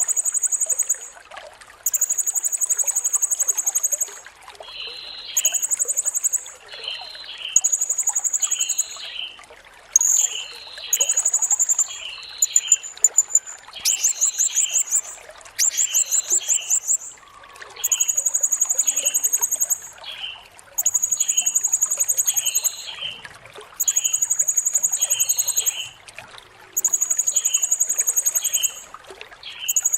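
Blue-crowned hanging parrot (serindit) calling: shrill, high buzzy notes of a second or two each, repeated about every two seconds, broken near the middle by a few rapid stuttering trills, with softer short chirps in between.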